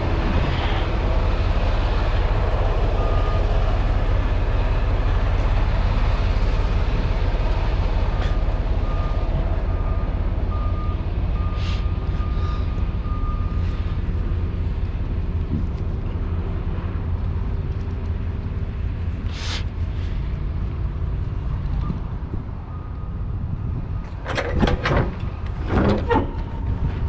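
Diesel semi-truck running with a steady low rumble, an intermittent electronic beeping for about ten seconds, and two short air hisses. Near the end come a run of sharp metallic clanks and rattles.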